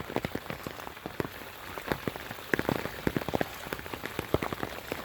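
Rain falling, with many separate raindrops striking a surface close by as irregular sharp taps over the steady hiss.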